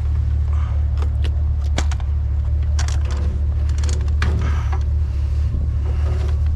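A vehicle engine idling with a steady low hum, under a string of irregular clanks and knocks as a pressure washer is handled and loaded into the back.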